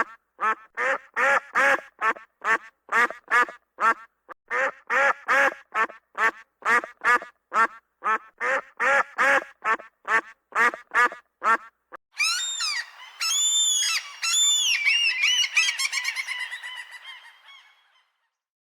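Duck quacking in a fast run of short calls, about two to three a second. About twelve seconds in it changes to higher-pitched, overlapping honking calls from several birds that trail off and stop shortly before the end.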